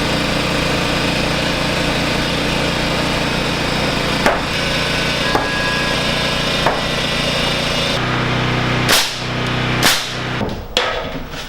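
A motor running steadily with sharp knocks over it, a few single strikes and then two louder ones near the end; the motor's note changes about eight seconds in.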